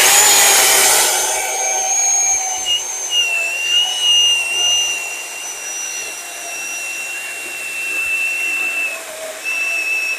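Worx WG385E 16-inch cordless electric chainsaw running at full speed and cutting through a log. It starts with a burst of chain-on-wood noise, then settles into a steady high motor and chain whine that wavers slightly as the cut goes on.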